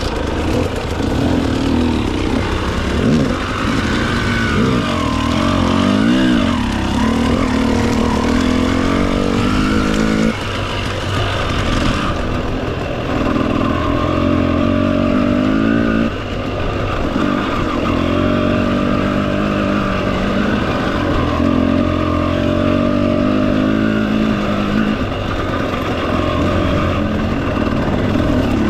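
Enduro motorcycle engine running under way, its revs rising and falling continuously, with brief drops in revs about ten and sixteen seconds in.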